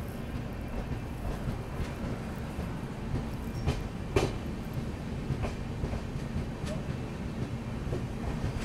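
Passenger train running, heard from on board: a steady rumble of wheels on the rails with occasional sharp clicks, the loudest about four seconds in.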